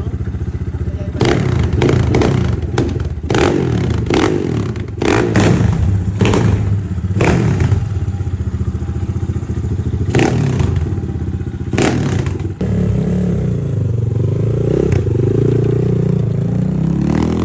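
Rebel Master 250cc four-stroke motorcycle engine running and revving, its pitch rising and falling, with repeated sharp thumps and clatter through the first twelve seconds or so.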